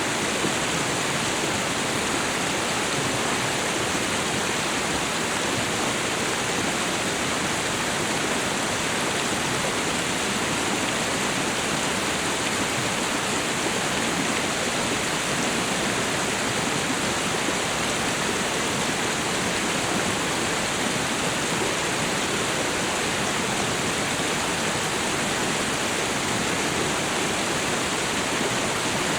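Waterfall and river water rushing in a steady, even wash of sound with no breaks or changes.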